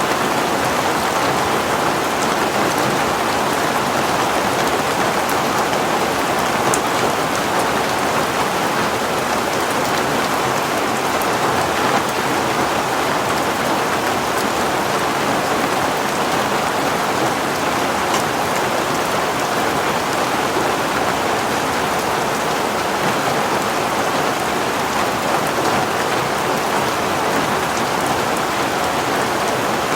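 Heavy rain falling steadily, a constant even hiss with scattered faint drop ticks.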